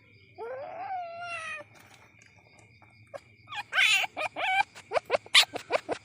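Young palm civet (musang) calling. A drawn-out cry falling in pitch comes near the start, and after a pause a burst of calls turns into a fast run of short, sharp squeaks.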